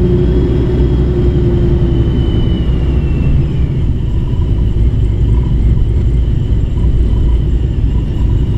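Pontiac G8's supercharged V8 running at low speed with a steady heavy rumble, not revving. A faint high whine fades out about three seconds in.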